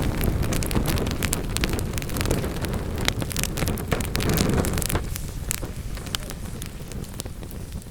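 Wood fire burning in a fireplace: a low rumble of flames with many sharp crackles and pops of burning wood. The rumble eases off after about five seconds while the crackling carries on.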